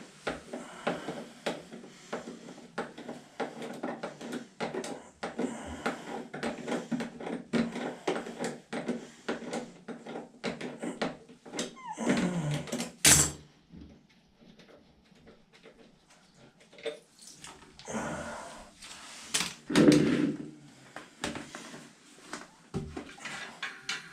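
Clicks, knocks and clatter of hand tools and toilet parts being handled: a dense run of small knocks, one loud knock about halfway through, a quiet stretch, then more knocking and rustling, in a small room.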